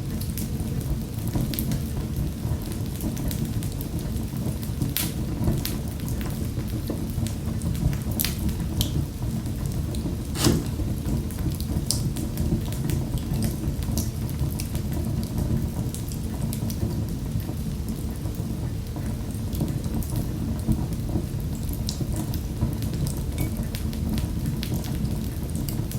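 Wood fire burning in a fireplace: a steady low rumble of the flames with scattered sharp crackles and pops, the loudest about ten seconds in.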